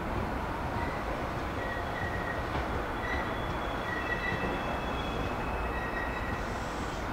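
Meitetsu electric train running along the track with a steady rumble, and faint high squeals that come and go.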